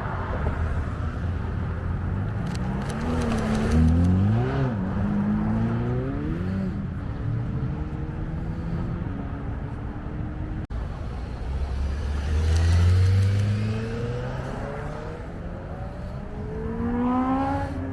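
Car engine revving: a few quick blips that rise and fall in pitch about three to five seconds in, then a steady pull. After a break about ten seconds in, an engine runs low and loud, then climbs in pitch as it accelerates.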